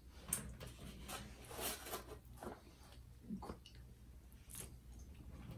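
Faint mouth sounds of a person eating a forkful of palabok rice noodles: soft chewing with a few short smacks and clicks spread through it.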